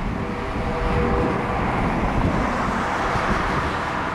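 Airbus A340-300 jet engines, a steady low rumble with a few faint steady tones over it.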